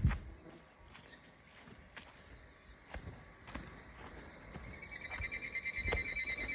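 Cicadas droning steadily in the forest, with a few footsteps on the trail. About five seconds in, a closer cicada starts a louder, rapidly pulsing song.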